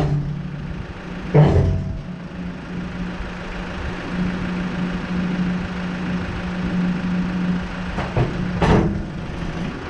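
A diesel engine running steadily, broken by loud bangs at the start, again about a second and a half in, and once more near the end.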